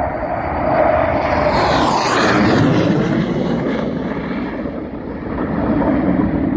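Hawker Hunter jet's Rolls-Royce Avon turbojet passing low overhead: loud jet noise that peaks about two seconds in, with its pitch sliding down as the aircraft goes over, then a lower rumble as it moves away.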